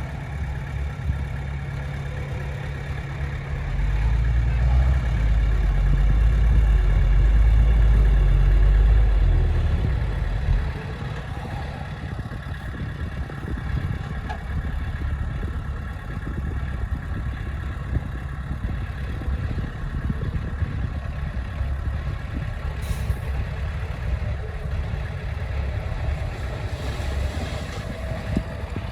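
Heavy diesel engine running steadily, growing clearly louder and heavier from about four seconds in for some six seconds, then dropping back to its earlier level.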